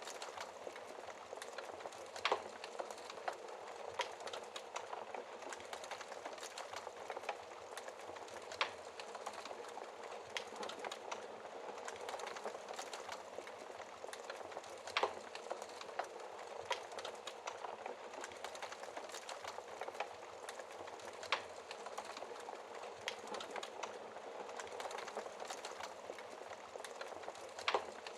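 Wood fire burning in a fireplace: a steady hiss of flames with constant small crackles and occasional sharper pops from the logs.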